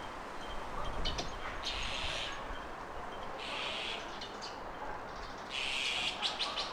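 Garden birds calling: a harsh, rasping call about half a second long repeats roughly every two seconds, with short sharp chirps between, over a low steady rumble.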